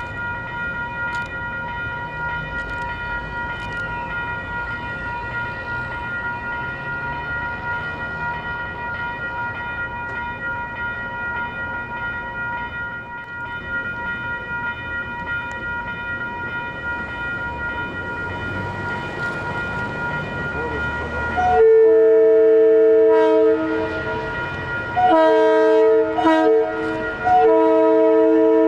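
Approaching Metro-North diesel-electric locomotive (GE P32AC-DM) running with a steady rumble and a whine of several high tones. About 21 seconds in its multi-chime air horn starts blowing a loud chord: one long blast, a broken shorter blast and another long blast running to the end.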